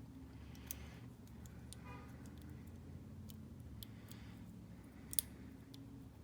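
Light, scattered clicks and ticks of a metal shim being worked into a small pin tumbler cabinet lock, with one sharper click about five seconds in.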